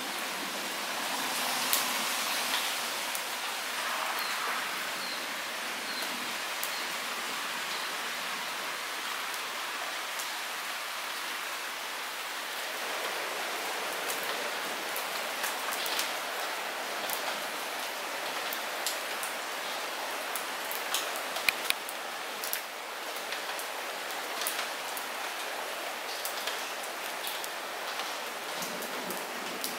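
Steady light rain falling, with sharp individual drop taps scattered through it that come more often in the second half.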